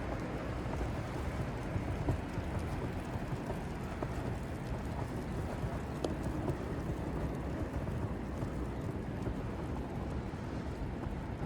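Outdoor city ambience: a steady low rumble and hiss, with a few faint clicks.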